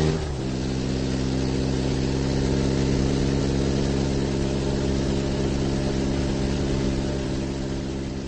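Car engine sound effect running at a steady pitch, dipping slightly at the start and fading down near the end.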